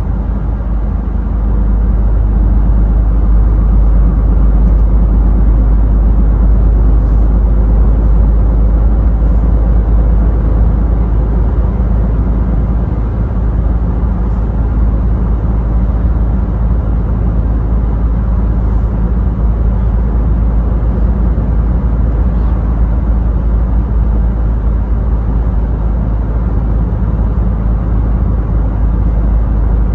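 Scania truck on the move: a steady, deep engine drone with road and tyre noise, unchanging throughout.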